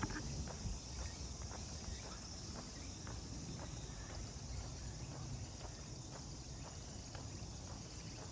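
Footsteps walking at a steady pace, about two steps a second, over a steady high chirring of insects.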